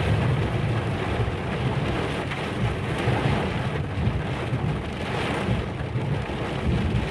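Steady rain in a thunderstorm, with shifting wind and low rumbling underneath.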